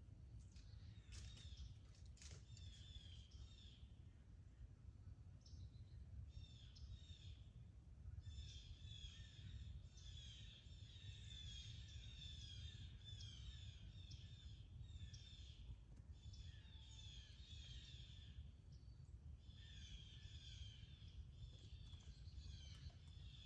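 Small birds chirping faintly in quick twittering runs, one after another, over a low steady rumble; a couple of sharp clicks sound near the start.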